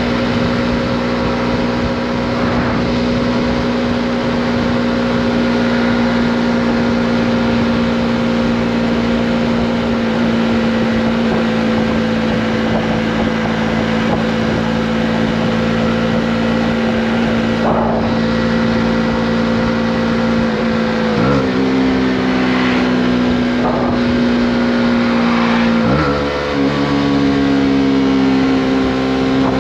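Honda CB125R's single-cylinder four-stroke engine running at steady revs while riding. About 21 seconds in, the revs dip briefly and settle lower, and near the end they dip again and then settle a little higher, as at gear changes.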